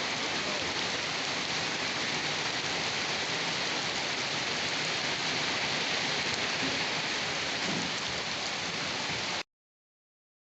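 Steady rain falling, an even hiss, which cuts off suddenly to total silence about nine seconds in, as at an edit or a loop point in the recording.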